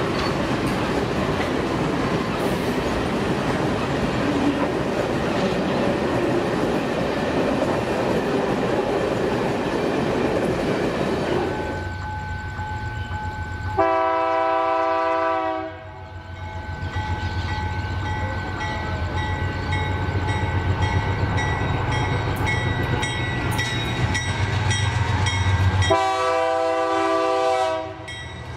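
Train running past with a dense, steady noise of wheels on rails. The noise gives way to the low rumble of a locomotive, which sounds its multi-tone horn twice, about two seconds each time: near the middle and again near the end.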